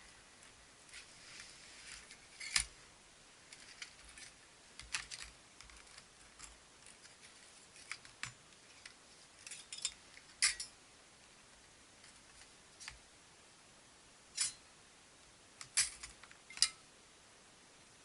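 Scattered sharp clicks and light taps of small hard parts being handled, with soft rustling in between, as the pieces of a small backpacking wood stove are handled.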